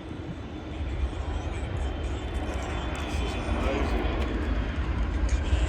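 Jet airliner engines running as an aircraft moves near the airport, a steady rushing noise with deep rumble that slowly grows louder through the second half.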